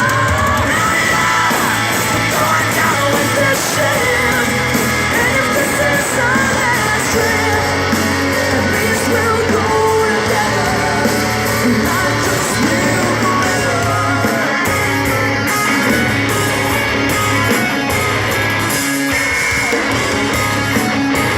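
Hard rock band playing live at full volume, the lead singer belting the vocal line over electric guitars and drums.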